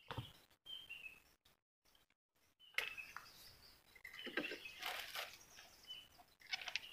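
A small bird giving a few short, falling chirps, faint, with irregular bursts of rustling or scraping noise in between.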